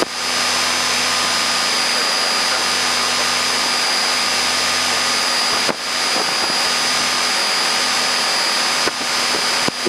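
Steady loud hiss and low hum of a Cessna 172M's cockpit with its engine running on the ground, with a brief dip a little under six seconds in.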